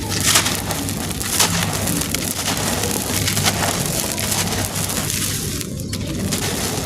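Dry, stony cement-like chunks being crushed and crumbled, a dense, gritty run of crunching and crackling with louder crunches near the start and about a second and a half in.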